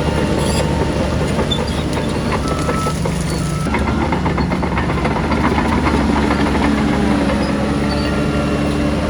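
Heavy diesel engines of earthmoving machinery running steadily, with a rattling clatter added from about four seconds in.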